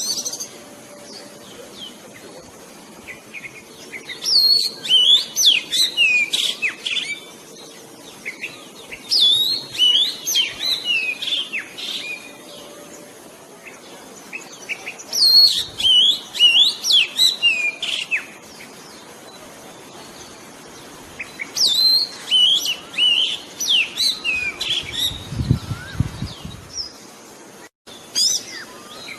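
Oriental magpie-robin singing: four bursts of rapid, varied whistled phrases a few seconds apart, with quiet gaps between. A short low rumble sounds underneath near the end.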